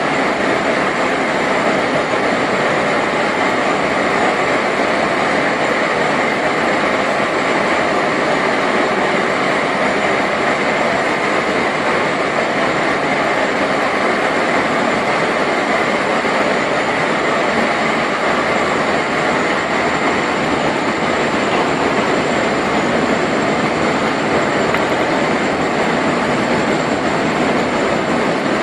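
Steady, loud industrial noise, an even rumble and hiss with a faint high whine above it, unchanging throughout with no single blast.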